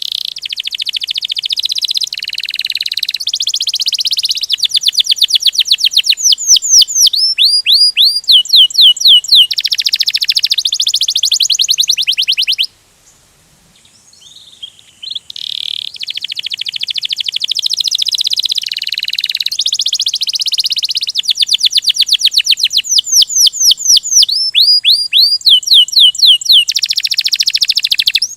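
Domestic canary singing a long rolling song: fast trills and runs of repeated rising whistled notes, one phrase after another. The song breaks off for about three seconds midway, then starts again.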